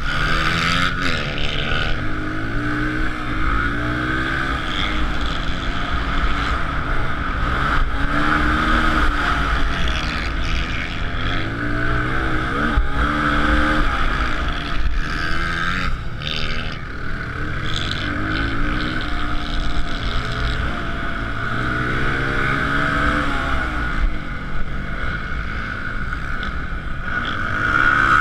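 Suzuki DR-Z125L pit bike's single-cylinder four-stroke engine revving hard, its pitch climbing and dropping again and again every couple of seconds under a steady rushing noise.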